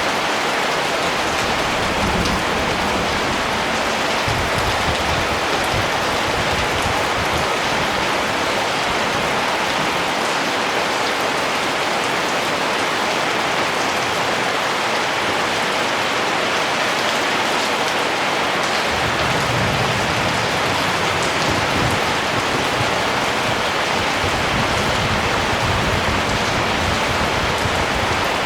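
Steady rain falling, an even dense hiss of drops, with a low rumble underneath that fades out for a stretch in the middle and then comes back.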